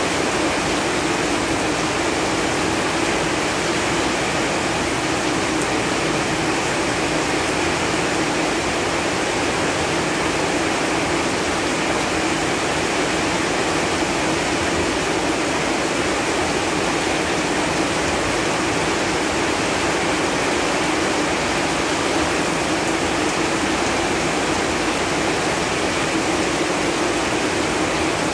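Steady rain falling on leaves, a dense even patter with no single drops or gusts standing out.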